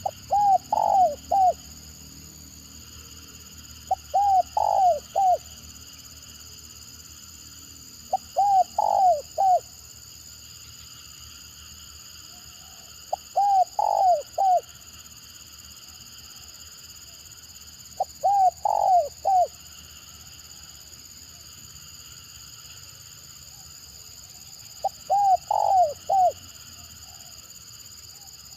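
Spotted dove (tekukur) cooing in the clipped, stuttering style known as 'gagap': six short phrases of three or four quick coos each, one about every four to five seconds.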